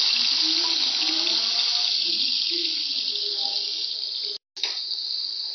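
Chopped tomatoes sizzling loudly in hot oil in a frying pan, a steady hiss that eases slightly over the seconds. It cuts out for a split second about four seconds in.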